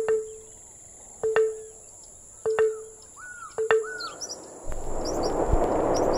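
Birds chirping over outdoor ambience, with a short low note repeating about every second and a quarter for the first four seconds. After that a rush of noise swells up and grows louder toward the end.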